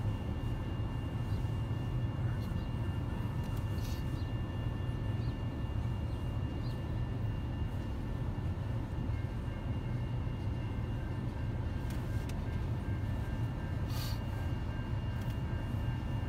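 Long mixed freight train rolling past a road crossing, heard from inside a car's cabin: a steady low rumble of the freight cars going by, with a few sharp clicks.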